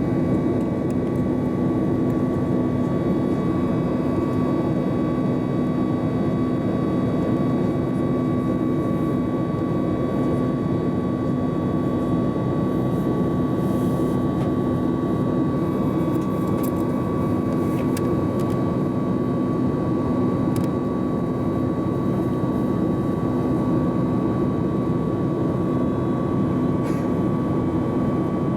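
Steady cabin drone of a Boeing 737 MAX 8-200 in flight: the whine of its CFM LEAP-1B turbofans and the rush of air over the fuselage, heard from a seat inside the cabin, with a thin steady tone riding over the low rumble.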